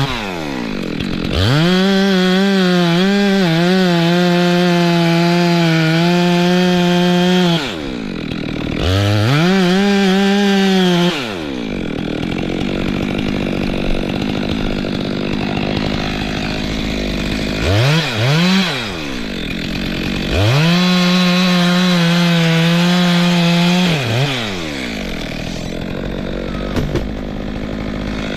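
Two-stroke Stihl chainsaw revving to full throttle in three long bursts, dropping back to idle between them, with a couple of quick throttle blips in the middle.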